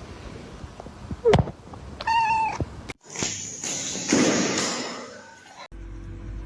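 A cat meowing once, a short pitched call about two seconds in, followed after a break by a stretch of noisy hiss-like sound.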